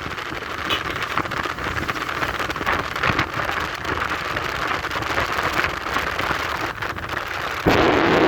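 Steady rushing wind and road noise from riding on a motorcycle, with a crackly texture, suddenly growing louder near the end.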